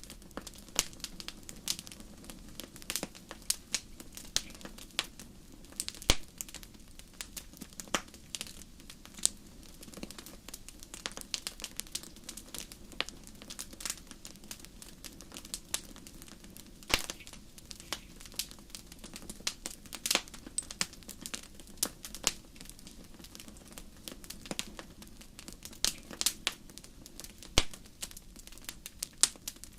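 Wood fire burning in a fireplace, with irregular crackles and sharp pops over a low steady hiss; a few pops stand out louder, around six, seventeen and twenty-seven seconds in.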